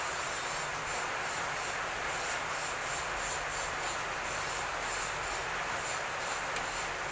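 Steady hissing noise with a faint high-pitched shimmer that pulses a few times a second.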